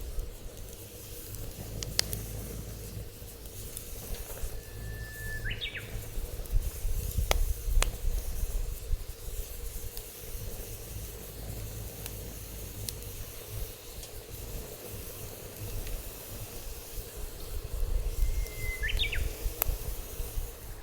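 Wood fire burning in a Snow Peak fire pit, with scattered sharp crackles and pops, over a low gusting wind rumble on the microphone. A bird calls twice, about five seconds in and near the end, each time a short held whistle ending in a quick flourish.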